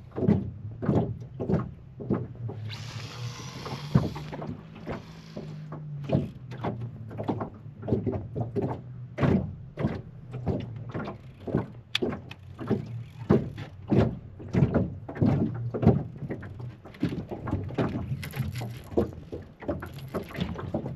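Wind-driven waves slapping against a boat's hull in a long run of short knocks, about one or two a second, over a steady low hum. A hissy rush rises about three seconds in and fades by six seconds.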